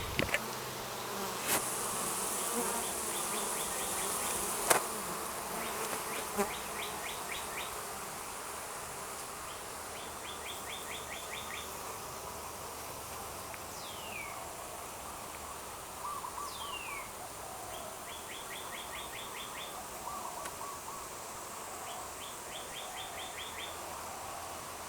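Bees buzzing steadily. A bird repeats a short, rapid trill every few seconds, and twice gives a falling whistle. A few sharp knocks come in the first seven seconds.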